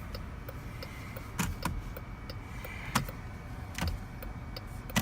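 2017 Chrysler Pacifica's turn-signal indicator ticking in the cabin, steady light clicks about three a second, with a few louder sharp clicks among them.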